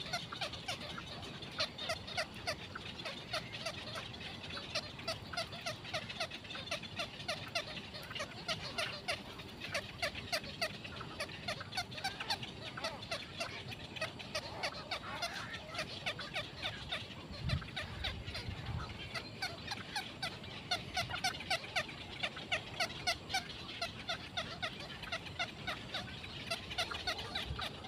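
Birds giving short chattering calls over and over, several a second, without a break. A brief low thump comes a little past halfway.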